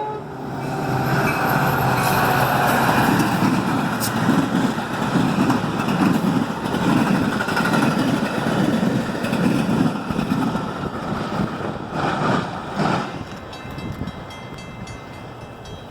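Metra commuter train passing, its wheels clattering over rail joints in a steady rhythmic beat a little over once a second, with a couple of sharp clacks and the rumble fading toward the end.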